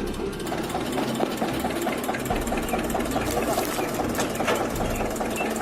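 Tractor's diesel engine running at idle with a quick, even knocking beat.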